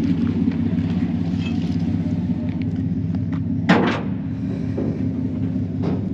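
Engine running steadily with a low hum, with a single sharp knock a little under four seconds in and a few faint clicks.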